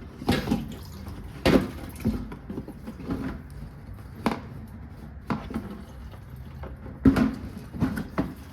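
A series of irregular knocks and clunks from objects being handled and set down, about nine sharp hits spread unevenly over several seconds.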